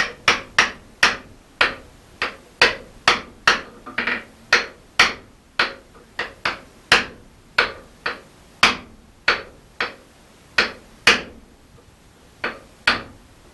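Hand hammer blows driving a steel drift into the eye of a hot forged axe head to spread the bottom of the eye, sharp metal-on-metal strikes about two a second. The strikes pause a little after eleven seconds, then two more blows land near the end.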